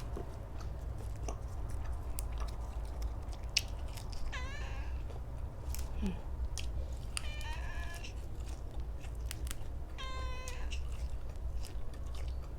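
A cat meowing three times, about three seconds apart, over close-up chewing and crunching of food.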